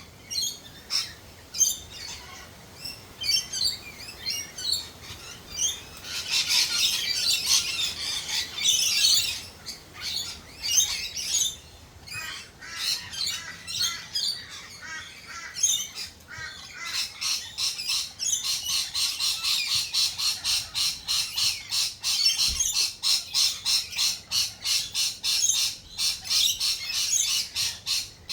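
Birds calling: scattered squawks and chirps at first, then about halfway through a long, fast run of sharp repeated notes, several a second.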